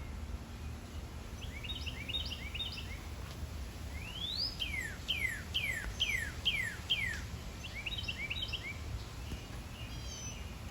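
Songbird singing: a quick cluster of short chirps, then one rising note followed by six falling slurred whistles, then more chirps, over a steady low rumble of outdoor background noise.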